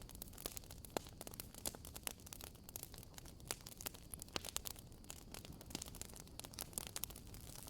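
Wood campfire crackling: irregular sharp pops and snaps, several a second, over a low hiss.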